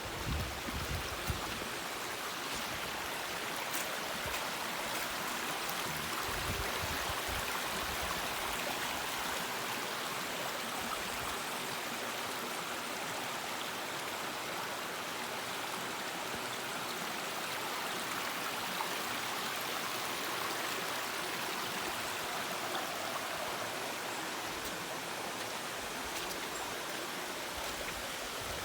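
Small waterfall pouring into a rock pool, a steady rushing and splashing of falling water at its lighter dry-season flow.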